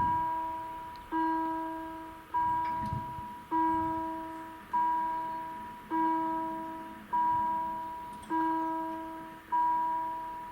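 Railway level-crossing bell ringing: a single bell-like ding about every 1.2 seconds, each one fading before the next, about nine strikes, stopping at the very end.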